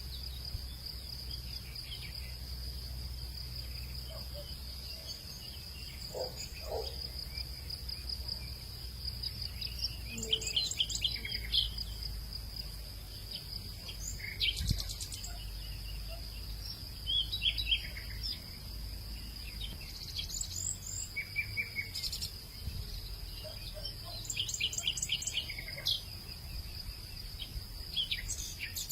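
Insects keep up a steady, unbroken high-pitched trill while birds call now and then over it in short chirps and quick trills, most often in the second half. A low rumble sits underneath.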